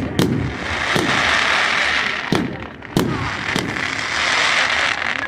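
Fireworks going off: sharp bangs about every second over a continuous crackling hiss.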